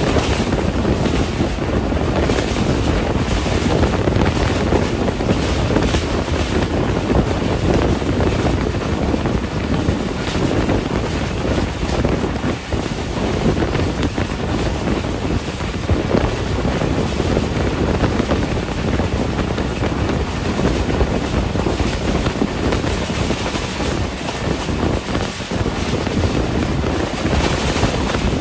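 Wind rushing past an open window of a passenger train running at speed, over the steady rumble of its wheels on the rails.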